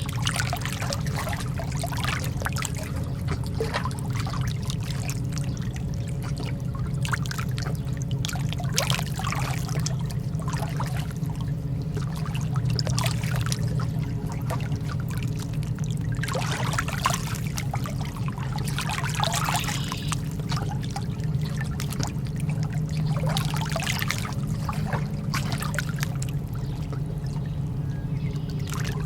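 Lake water lapping and trickling at the shore in small irregular splashes that come and go in uneven swells, over a steady low rumble.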